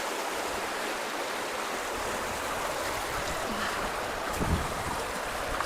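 Fast-flowing creek water rushing steadily, with a dull low thump about four and a half seconds in.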